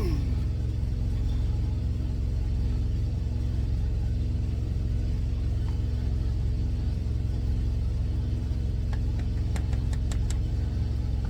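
Semi-truck engine idling: a steady low rumble with a constant hum. A few light clicks of a utensil against dishes near the end.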